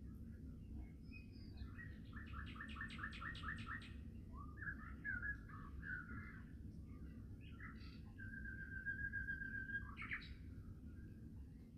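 Songbirds singing: a fast run of about eight repeated notes, then warbling phrases, then one long steady whistled note that ends in a sharp call near the end, over a steady low rumble.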